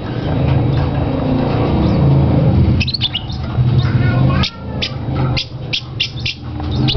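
Pet birds squawking and chirping: a run of short, sharp calls from about three seconds in. Under them a steady low rumble that stops about halfway through.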